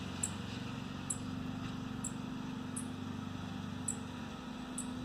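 Lawn mower engine running steadily in the background, with a bird's short, high chirp repeating about once a second.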